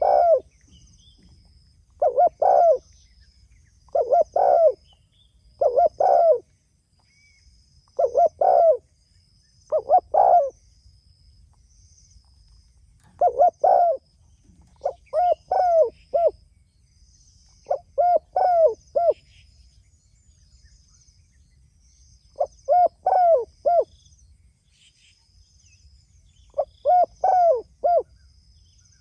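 Spotted dove (tekukur) cooing repeatedly: loud phrases of two to four short coos, one phrase every two to three seconds with a few longer pauses. Faint high chirping runs underneath.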